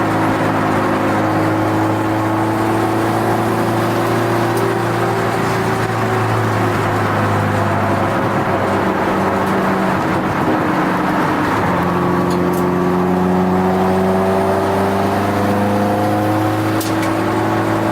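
Turbocharged Subaru WRX STi flat-four engine running hard on a road course, heard from inside the cabin. The engine tone holds steady, goes ragged for a few seconds around the middle, then climbs again as the car accelerates.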